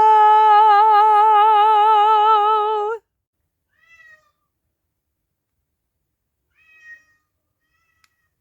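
A high voice holding one long sung note with a regular vibrato, which cuts off abruptly about three seconds in. Two faint, short calls follow, about four and seven seconds in.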